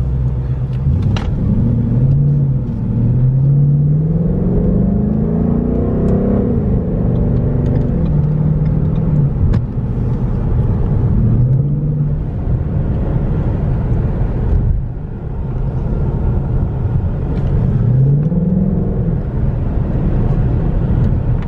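Ford Mustang GT's 5.0-litre Coyote V8 heard from inside the cabin while driving: the engine note rises in pitch under acceleration for several seconds starting about a second in, then drops back, with two shorter climbs about halfway and near the end, over steady road and tyre noise.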